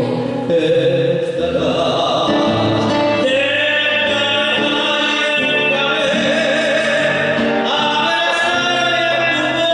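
Argentine folk song performed live, with long held sung notes over instrumental accompaniment.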